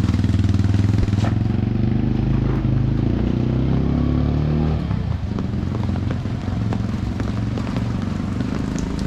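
A vehicle engine running close by, a loud low hum whose pitch shifts in the first half and eases off about five seconds in, then runs on steadier and a little quieter.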